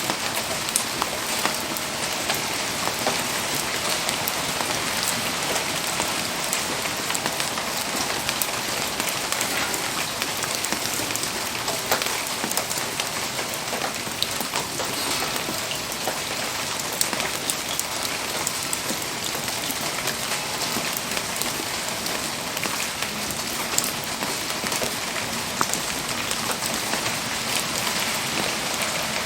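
Steady rain falling, with a dense patter of drops hitting surfaces as many small, sharp ticks.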